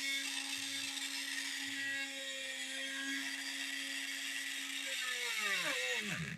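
Small DC motor of a homemade mini grinder / chilli cutter whining at a steady high speed, then spinning down with a falling pitch from about five seconds in as power is cut.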